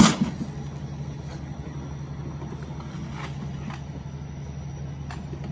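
Steady low mechanical hum, with a sharp knock at the very start and a few faint clicks later on.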